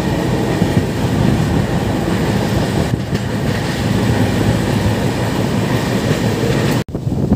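Steady running noise of an express train's coaches, wheels on the rails, heard at an open coach door. The sound cuts out abruptly for a moment near the end.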